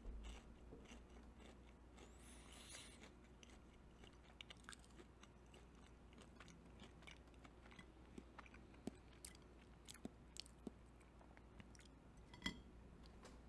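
Faint, close-up chewing of a mouthful of soft, thick toaster waffle: quiet mouth clicks and smacks scattered throughout, with one sharper click near the end.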